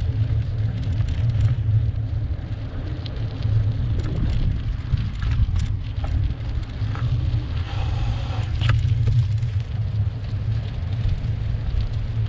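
Wind buffeting the microphone of a camera on a moving bicycle: a steady low rumble, with a brief brighter rush of noise about eight seconds in.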